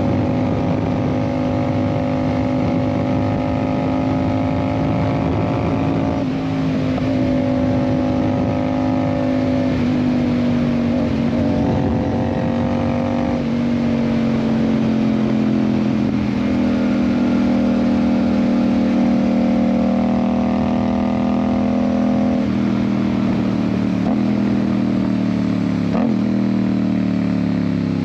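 Yamaha MT-07's parallel-twin engine pulling the bike along on an IXIL aftermarket exhaust, with road and wind noise. The engine note shifts in steps several times and falls toward the end as the bike slows.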